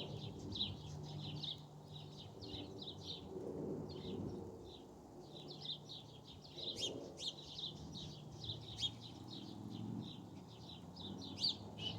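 Many small birds chirping and twittering in a continuous busy chatter of short, high notes, over a steady low hum.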